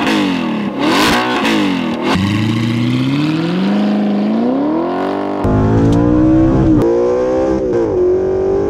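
2009 Audi R8's 4.2-litre V8 revved twice, then accelerating hard from a standstill. The engine's pitch climbs steadily, dips at a gear change near the end, then climbs again.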